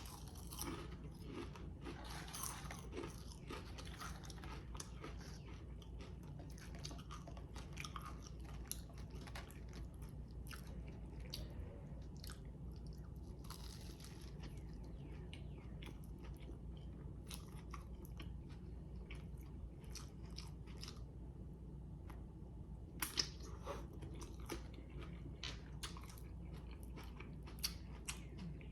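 A person chewing food close to the microphone, with crunchy bites and many small wet mouth clicks and crackles, a few sharper crunches near the end.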